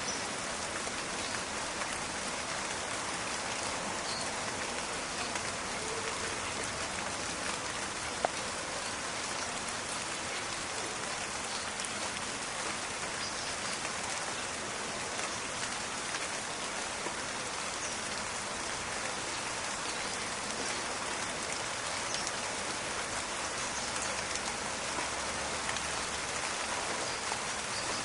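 Steady rain falling in a forest, a constant patter of many drops with the odd sharper drip.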